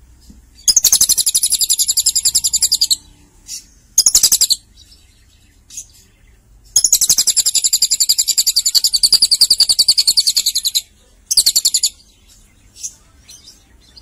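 Lovebird singing fast, rapid-fire chattering trills in four bursts: one of about two seconds, a short one, a long one of about four seconds, and a last short one. It is a song likened to a cililin's.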